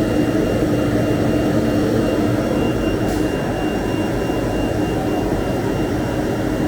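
CNC router running steadily: an even rushing machine noise with a constant high whine.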